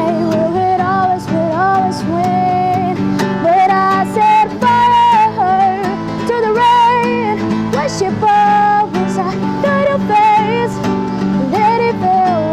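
A woman singing a slow ballad melody over strummed acoustic guitar.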